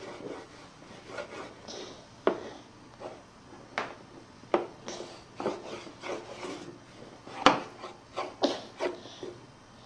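Crayon scribbling on paper over a hard surface: irregular scratchy strokes and taps, the loudest about seven and a half seconds in.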